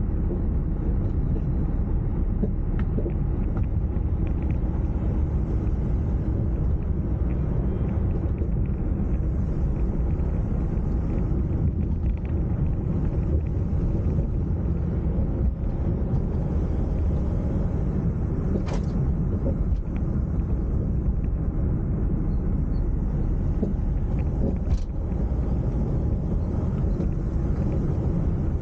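Steady low rumble of a car driving along a road, engine and tyre noise together, with two brief sharp ticks in the second half.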